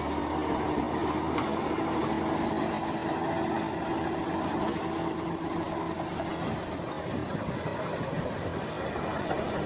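Heavy earthmoving machine's diesel engine running steadily, with a steady whine over the first six seconds or so.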